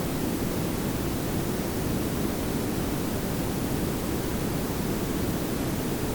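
Layered pink and brown noise: a steady, even hiss over a low rumble, with no changes.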